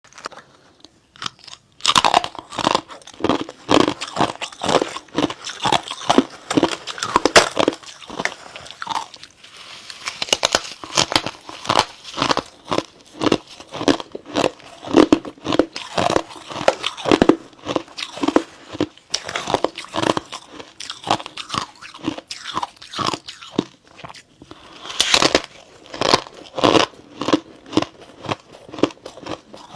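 A person biting and chewing chips of freezer frost: a close, dense run of crisp crunches that starts about two seconds in.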